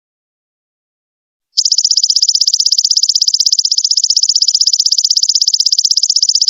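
Golden locust (belalang emas) insect call: a loud, rapid, evenly pulsed high trill that starts about a second and a half in, after a short silence, and keeps going.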